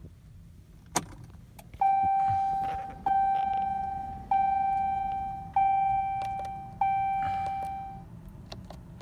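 A click as the ignition of a 2018 Ram 3500 is switched on, then the instrument cluster's warning chime sounds five times, about one every 1¼ seconds, each a single steady tone that fades away.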